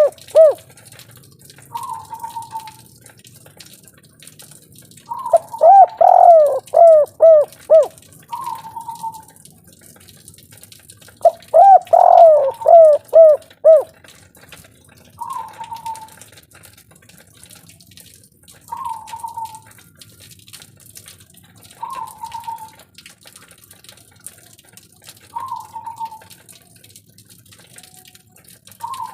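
Spotted dove (derkuku) cooing in the local 'kuk 3' style. Two loud phrases of several quick, arching coos come about 5 and 11 seconds in, with short, softer single calls every three or four seconds in between.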